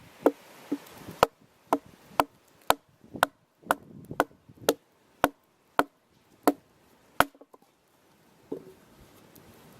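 Axe chopping wood: about fourteen sharp strikes, roughly two a second, that stop a little over seven seconds in.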